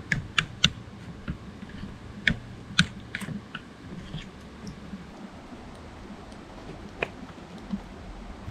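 Scattered sharp clicks and taps: three in quick succession just after the start, a few more around two to three seconds in, and one near seven seconds, over a low steady hum.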